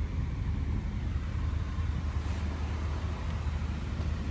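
Steady low hum inside a car's cabin, even throughout with no distinct events.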